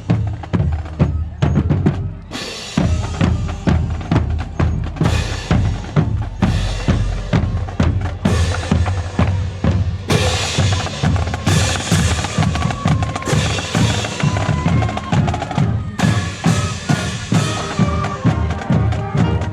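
A high school marching band's drumline plays a steady marching cadence on bass drums and snare drums, with regular beats and rolls. About halfway through, sustained pitched tones from the band's other instruments come in over the drums.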